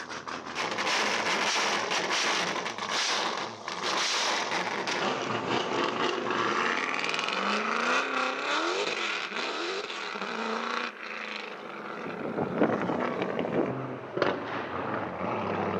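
V8 engine of an Audi A5 drift car running and revving as the car drives out onto the track, its pitch sweeping up and down in the middle. Two short sharp bangs come late on.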